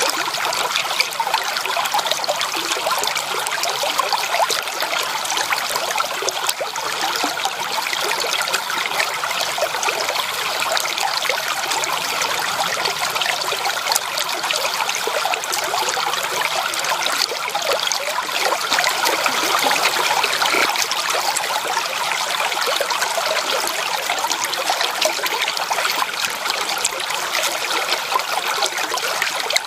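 Running water of a stream: a steady, even rush and splash of water over rocks, with no deep rumble.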